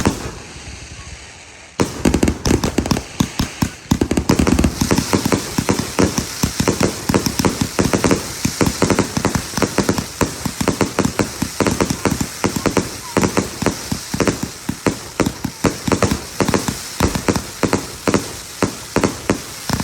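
A 300-shot firework cake firing a fast, continuous barrage of bangs. It starts about two seconds in after a short lull and keeps up the rapid shots without a break.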